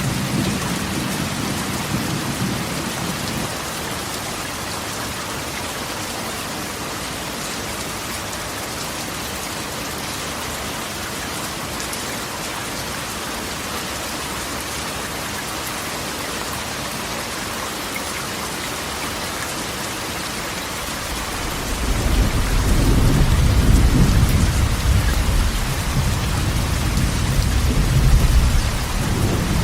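Rain pattering steadily on a corrugated metal roof, with thunder: a low rumble dies away in the first few seconds, and another long rolling rumble comes in about twenty seconds in and carries on to the end.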